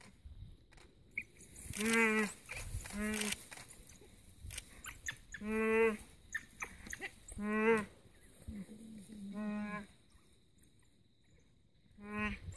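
Blue wildebeest giving short, repeated moaning bleats of distress, about six in all, as African wild dogs attack it. A burst of rustling scuffle noise comes with the first two calls.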